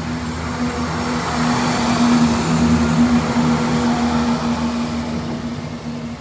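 Southern Class 377 electric multiple unit running past close by, with a steady low hum and the rumble of wheels on rail. It swells to its loudest about two to three seconds in, then fades as the last coach goes by.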